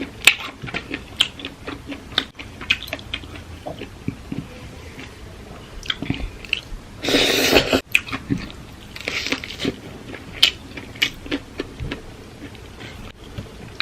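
Close-miked eating of papaya salad: a run of crunches, bites and chewing sounds, with a louder, noisier crunch lasting about a second about seven seconds in.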